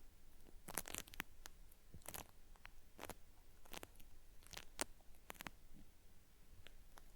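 Cotton swab scraping inside a binaural microphone's ear, making faint, irregular dry crackles like something being peeled away.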